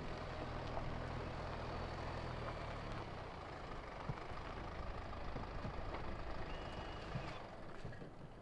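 Mercedes-Benz A-Class hatchback pulling up with its engine running at a low, steady hum that cuts out about three seconds in. A short faint tone sounds near the end.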